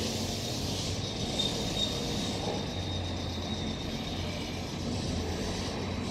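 Meitetsu red commuter electric train pulling out of a station and running away along the track, a steady rumble of wheels and motors with a thin high tone for about a second just over a second in.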